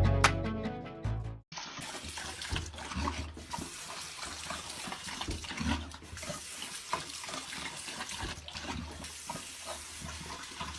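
Water running and splashing, with many small clicks and knocks throughout, after a short tail of music at the start.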